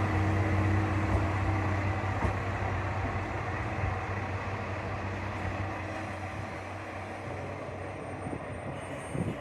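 KiHa 2000 diesel railcar's engine running with a steady low hum that slowly gets quieter.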